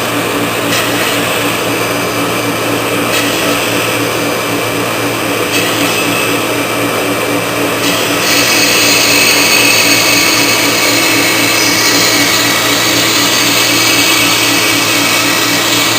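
CNC router running, its spindle motor whining steadily. About eight seconds in, a higher-pitched whine comes in and the sound gets slightly louder.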